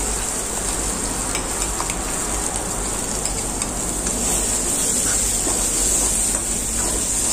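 Ground chutney paste sizzling steadily as it goes into hot sesame-oil tempering in a kadai, with a spoon scraping it out of a steel mixer jar and stirring it in, a few faint clicks over the sizzle.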